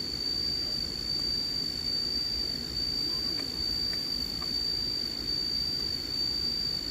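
Steady, unbroken high-pitched insect drone over a low rumbling background.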